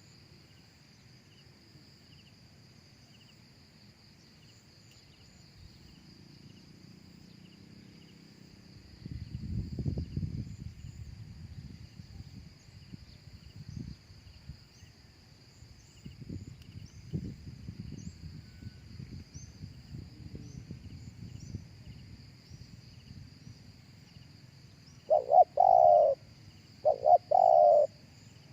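Spotted dove cooing: two loud, low cooing phrases close together near the end. A steady high-pitched insect drone runs underneath, and a low rumbling noise comes and goes through the middle.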